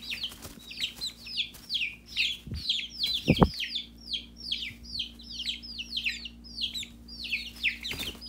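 Several baby chickens peeping continuously, a fast run of short, high, downward-sliding peeps, about three or four a second. Two soft low thumps come about two and a half and three and a half seconds in.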